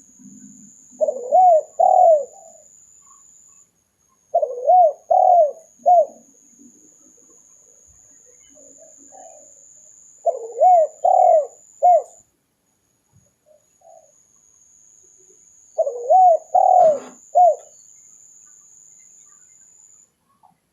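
Spotted dove (tekukur) cooing, as a recorded lure call. There are four phrases of three arched coo notes each, spaced a few seconds apart.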